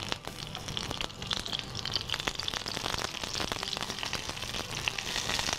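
Capsicum (green bell pepper) strips sizzling and crackling in hot oil in a nonstick kadhai, stirred with a wooden spatula, with many small clicks through the sizzle. The sizzle gets a little stronger after about three seconds.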